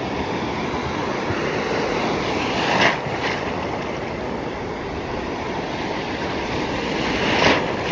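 Stormy sea surf breaking and washing around, with two louder wave crashes: one about three seconds in and one near the end.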